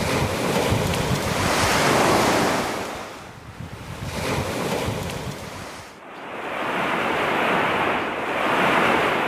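Sea waves washing in and out, swelling and fading about three times, with wind buffeting the microphone.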